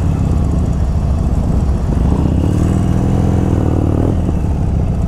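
Harley-Davidson Forty-Eight Sportster's V-twin running under way through Screamin' Eagle Street Cannon mufflers. Its note rises and then falls once, between about two and four seconds in.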